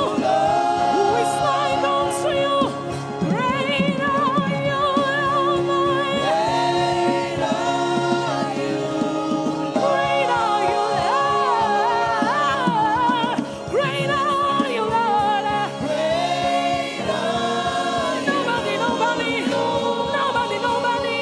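Gospel worship music: singers with vocal runs and vibrato over sustained keyboard and band accompaniment.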